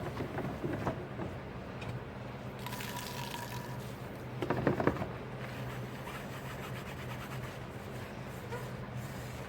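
Dishes being washed by hand in a sink: water splashing briefly, then, about halfway through, a louder cluster of dishes knocking together in the water, over a steady low hum.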